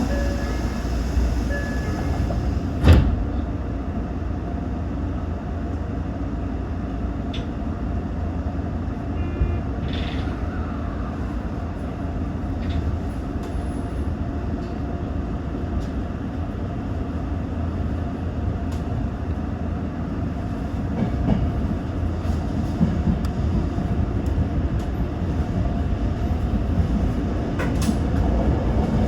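Toyo Rapid Railway 2000 series electric train pulling away from a station and gathering speed, its running noise slowly getting louder toward the end. A single sharp knock sounds about three seconds in.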